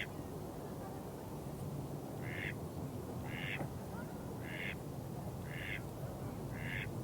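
An animal's short call repeated about once a second, starting a couple of seconds in, over a steady low rush of water.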